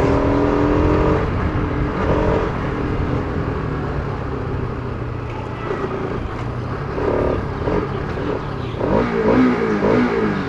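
Bajaj Pulsar RS200's single-cylinder engine being revved while riding, with several throttle blips that rise and fall in pitch: one at the start, one about 2 seconds in, and two more near the end.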